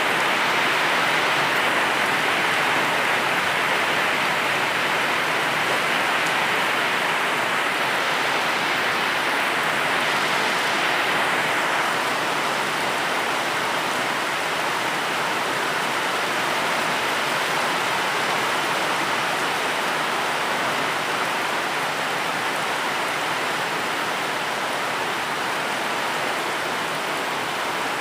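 Steady, heavy rainfall: an even hiss of rain with no separate drops or thunder standing out.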